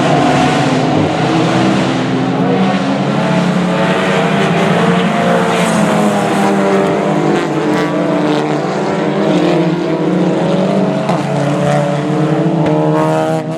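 Engines of a pack of racing touring cars at speed, several engine notes rising and falling over one another as the cars accelerate and shift.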